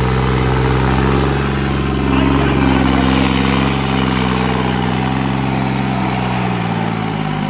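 Tractor's diesel engine running steadily, louder for a second or so about two seconds in, then dropping in pitch near the end.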